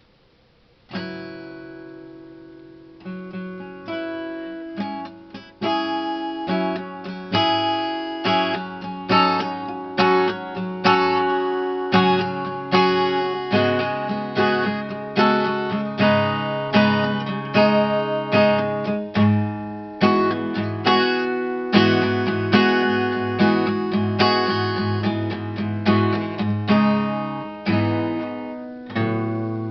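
Acoustic guitar strummed in a steady rhythm, chords ringing between strokes, starting with a single strum about a second in.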